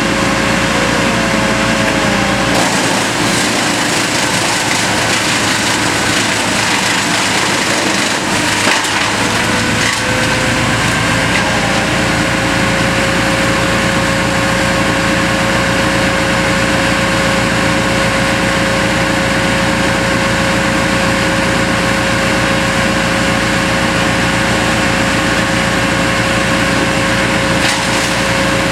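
Engine-driven brush chipper running steadily and chipping tree limbs; its steady whine sags briefly about nine seconds in as it takes a load, then recovers.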